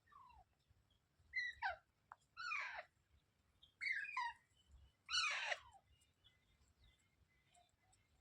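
Green ringneck parrot calling: about six short, harsh calls that fall in pitch, some in quick pairs, the loudest about five seconds in.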